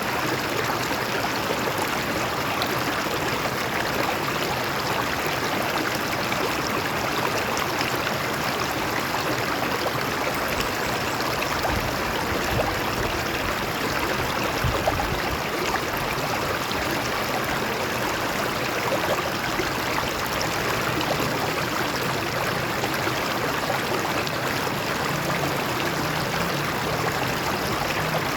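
A stream flowing and splashing over rocks, with a steady rush and small gurgles.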